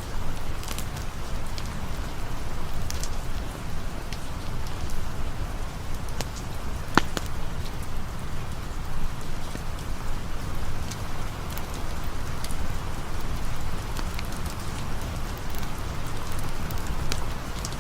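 Steady rain falling, with scattered sharp pops of a crackling campfire and one louder crack about seven seconds in.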